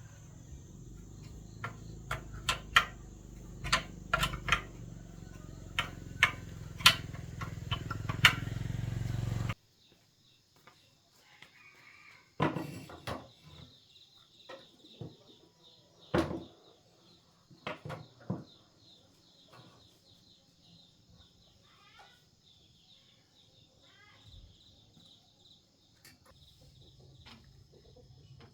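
Sharp clicks and knocks, like tools on metal, over a low hum. About nine seconds in, this cuts off suddenly to a steady high insect trill with a few scattered knocks.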